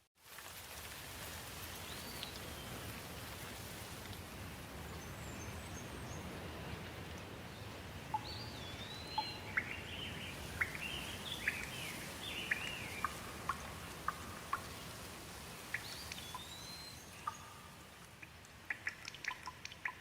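Steady rain falling, with close drops dripping and birds chirping in short runs, busiest in the middle. Near the end the rain eases to separate drips.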